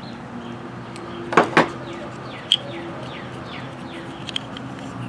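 Small birds chirping in short falling notes over a steady low hum, with two quick knocks about a second and a half in and a sharper click a second later.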